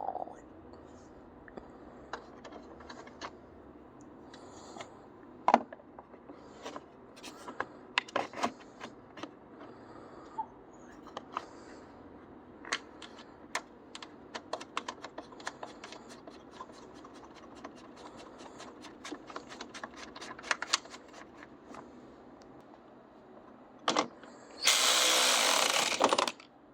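Hand-tool work on a car: scattered clicks and knocks, with a long run of quick, closely spaced clicks through the middle, then a loud rushing noise lasting about a second and a half near the end.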